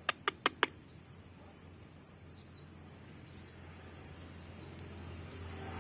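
Four sharp clicks in quick succession right at the start, then a few faint, short, high chirps from a caged pet songbird, spaced about a second apart.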